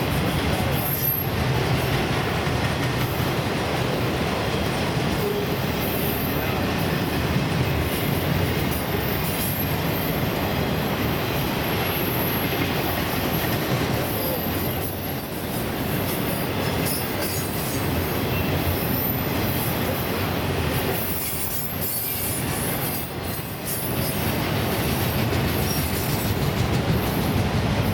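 Empty autorack freight cars rolling past on steel rails, a steady noise of wheels on the track, with thin high wheel squeals now and then.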